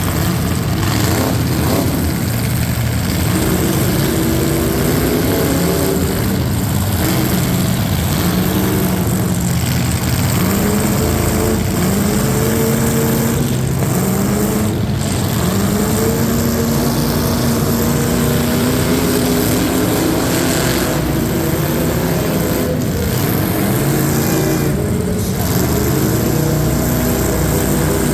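Loud competition truck engine revving under hard throttle, its pitch climbing again and again every couple of seconds as it accelerates and backs off.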